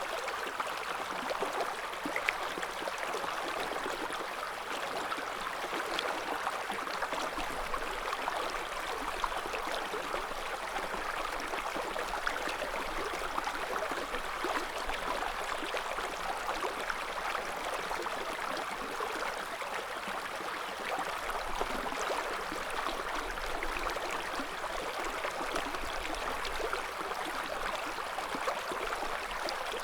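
River water flowing over stones: a steady babble with small splashes and gurgles scattered through it.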